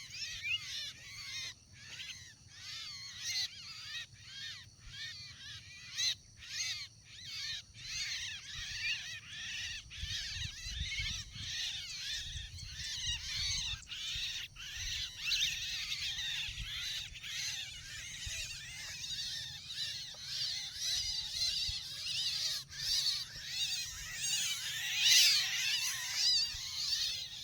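Many birds calling at once, a dense overlapping chatter of short calls that builds toward the end, with frequent sharp clicks mixed in, typical of a flock of Javan mynas. The sound stops abruptly at the very end.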